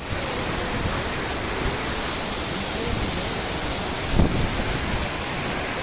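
Waterfall giving a steady, even roar of falling water, with a brief low thump about four seconds in.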